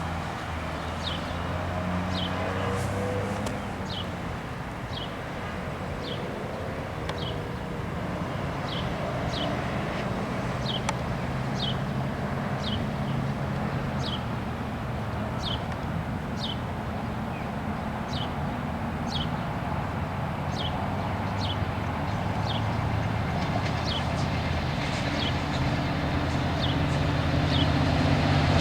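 Railroad crossing bell ringing steadily at about one strike a second. Underneath it runs a low, steady engine rumble that grows slowly louder toward the end as the train approaches.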